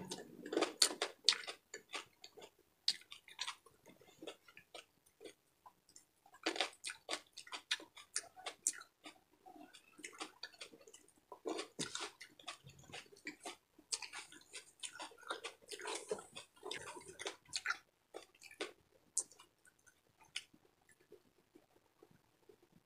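A person chewing and crunching a mouthful of deep-fried pork bagnet, with short clicky crunches and wet mouth sounds coming in bursts, fading to near quiet for the last few seconds.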